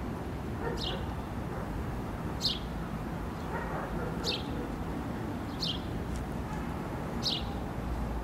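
A small bird chirping, about five short falling notes spaced a second or two apart, over a steady low background rumble.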